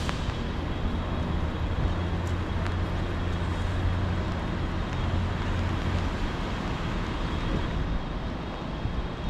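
City street traffic noise, with a heavy vehicle's low engine rumble for the first six seconds or so before it fades into the steady traffic hiss.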